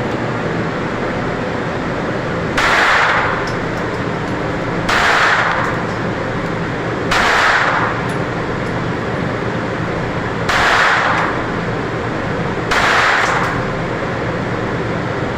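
Gunshots at a shooting range: five single shots about two to three seconds apart, each sharp and briefly ringing, over a steady background noise.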